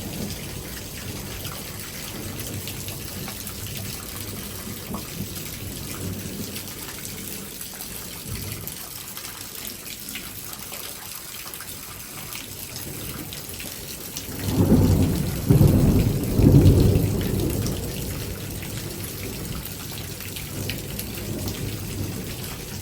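Heavy rain falling steadily in a thunderstorm. About two-thirds of the way in, a loud low rumble swells in several surges and lasts about three seconds before the rain is left alone again.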